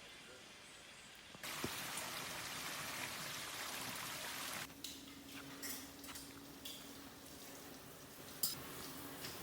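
Rain falling in a steady hiss that starts and stops abruptly, followed by scattered drips and ticks.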